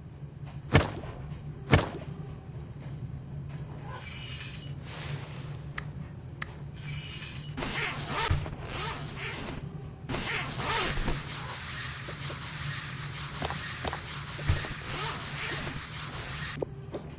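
Steady low hum with two sharp clicks near the start, short bursts of hissing, then a loud continuous hiss lasting about six seconds that cuts off suddenly.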